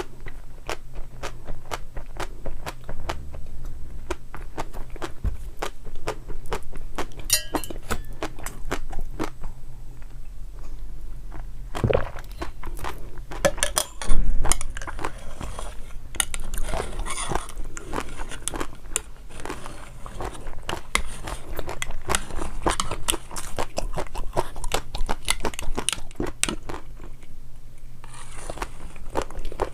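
Close-miked crunching and chewing of crisp food, a steady stream of small sharp crackles with one loud crunching bite about 14 seconds in.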